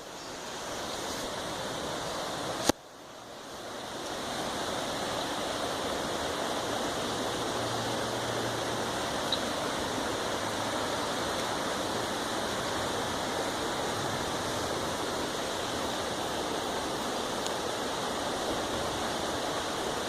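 River water rushing steadily. About three seconds in there is a sharp click, then the sound drops away and swells back up over a couple of seconds.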